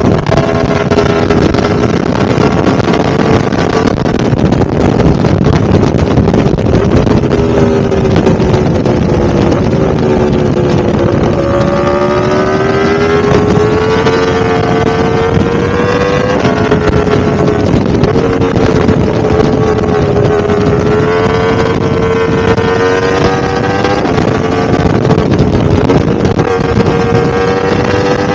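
Yamaha R1-M's crossplane inline-four engine running continuously, its pitch drifting slowly down and back up over several seconds at a time.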